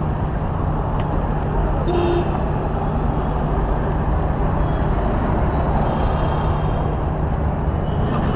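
Steady motorcycle engine running amid road traffic noise, an even rumble and hiss with a constant low drone.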